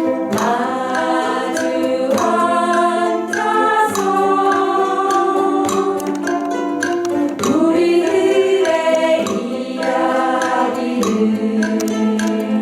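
A group singing a song together in unison while strumming ukuleles, with the voices held on long notes over a steady strum.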